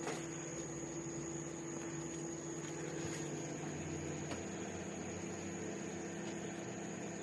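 Sharp 20-litre basic microwave oven running: a steady hum with a thin high whine over it. The low part of the hum shifts about four seconds in.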